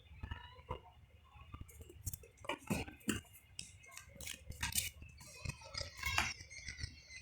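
Cats at play making irregular light knocks, clicks and clinks, coming quickest from about two seconds in to about five.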